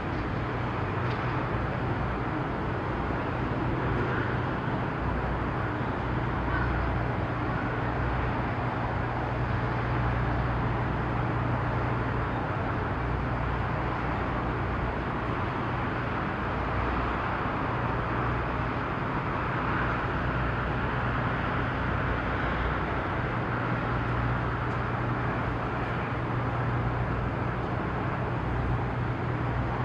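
Steady low engine drone with a constant hum and an even outdoor noise haze, unchanging throughout.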